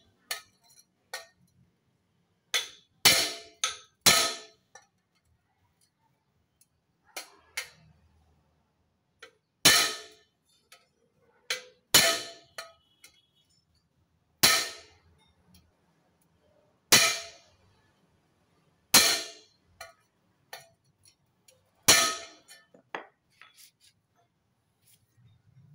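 A hammer striking metal: about ten sharp clanging blows at irregular gaps of one to three seconds, each with a short ring, plus a few lighter taps. They are blows on a dented motorcycle exhaust to work the dents out.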